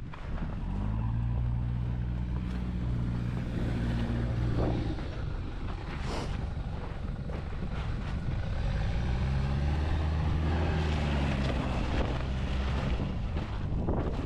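An off-road vehicle's engine revs up twice, each time rising in pitch and then holding for about four seconds, with wind buffeting the microphone throughout.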